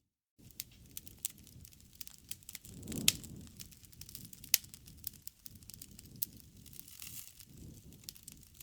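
Wood fire (campfire) crackling: irregular sharp pops and snaps over a low, fluttering rush of flames, with a louder pop about three seconds in and another a second and a half later. The sound begins after a split second of total silence.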